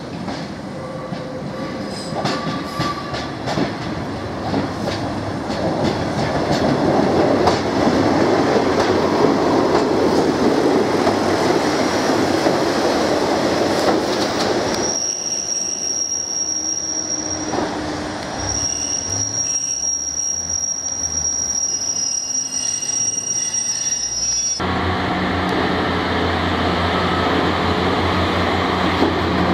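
Class 143 Pacer diesel multiple unit running in on curved track, its wheels squealing and clicking over the rail joints under a heavy rumble. After that comes a quieter stretch with a steady high-pitched squeal. About 25 s in this gives way to the steady low hum of a Pacer's diesel engine idling at a standstill.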